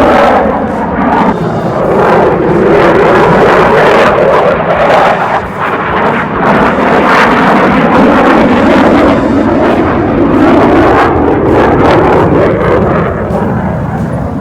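Military jet aircraft engine, a loud continuous roar that sinks a little in pitch over the first few seconds and then holds.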